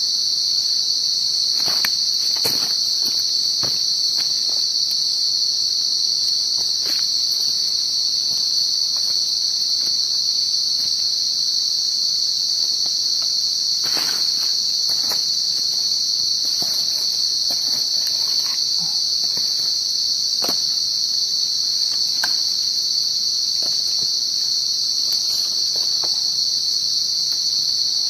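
Night chorus of crickets: a steady, unbroken high-pitched trill, with scattered faint ticks and snaps over it.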